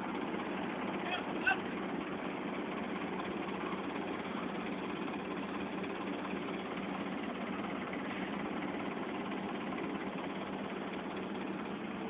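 Engine running steadily at idle, with a short honk about a second and a half in.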